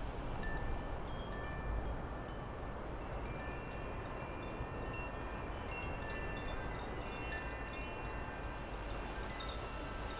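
Backyard outdoor ambience: many short, high ringing notes scattered at different pitches over a steady hiss and low rumble, more of them crowding together in the second half.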